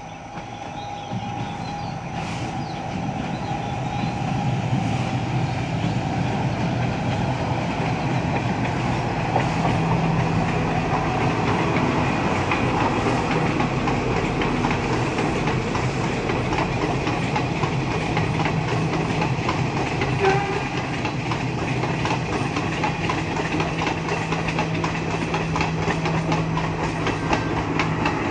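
Diesel passenger train passing, its engine running with a steady low hum and its wheels clattering on the rails. The sound builds over the first few seconds and then holds. There is one brief sharp knock about twenty seconds in.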